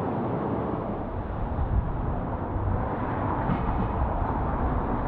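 City street ambience: a steady rumble of traffic.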